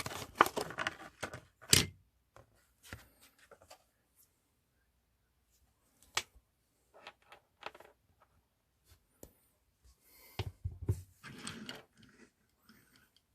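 Hot Wheels diecast car and its packaging being handled: scattered sharp clicks and taps, busiest in the first couple of seconds and again near the end.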